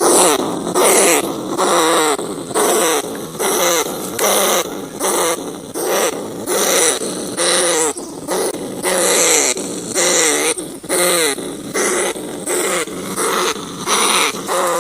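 Rats giving rapid squealing, growling distress calls, about two harsh cries a second, each bending in pitch.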